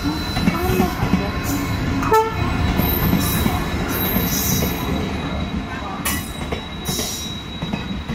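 Indian Railways diesel-hauled passenger train arriving: the locomotive and then its coaches roll past close by with a continuous rumble of wheels on the rails. A brief high tone sounds about two seconds in.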